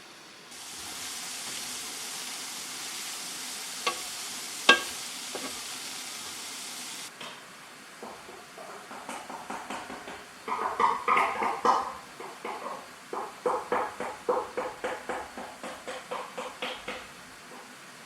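Pan cooking: a steady hiss that cuts off suddenly after about six seconds, with two sharp clicks partway through, then rapid rhythmic stirring in a pan, about two or three strokes a second, with a light ring.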